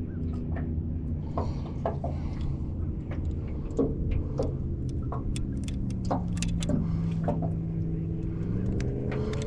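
A boat's motor running steadily, its pitch sagging for a few seconds and then recovering, with scattered sharp clicks and knocks.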